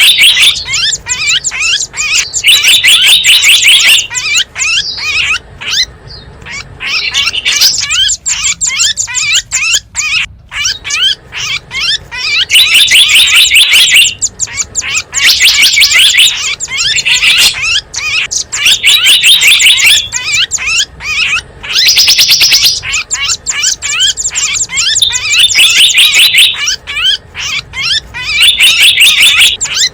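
Small wild birds calling on a bird-lure recording: loud, rapid chirping and trills in repeated bouts of a second or two, with brief gaps between.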